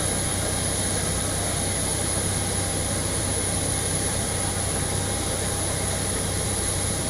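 Jet aircraft running on the ground: a steady, unbroken drone with a low hum and a thin constant high whine.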